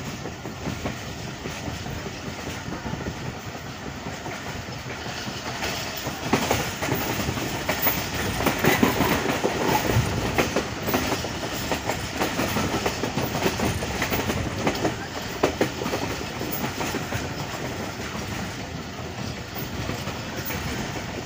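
Passenger train coaches running at speed, heard from an open doorway: a steady rolling rumble with the wheels clattering over rail joints. The clatter grows louder and busier about six seconds in, then eases again near the end.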